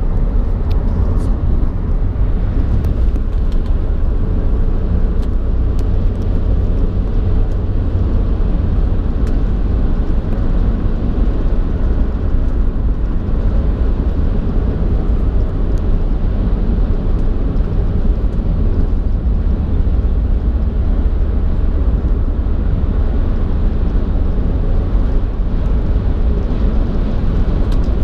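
Steady low rumble of a vehicle driving on the road: engine, tyre and wind noise, constant throughout.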